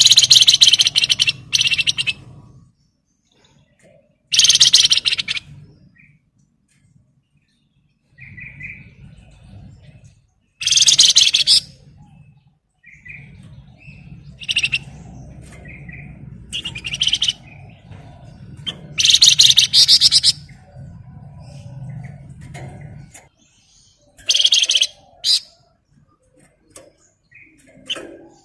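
Flamboyan songbird singing in loud, rapid chattering bursts (ngebren) of one to two seconds each, about seven in all, with short softer notes between them. A low hum sounds under much of it.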